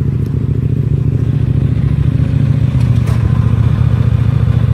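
Motorcycle engine running steadily with a low, even note.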